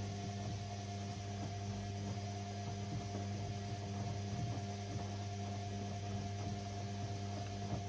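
AEG Lavamat 6610 washing machine giving off a steady, low electric hum.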